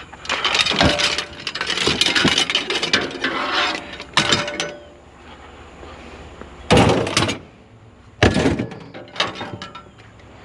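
Scrap metal clattering and rattling as it is handled and loaded into a discarded refrigerator, then two loud bangs a second and a half apart, with a smaller knock after them.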